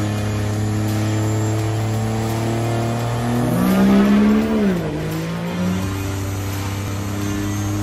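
Diesel race truck engine idling steadily, with one quick rev that rises and falls about halfway through before it settles back to idle.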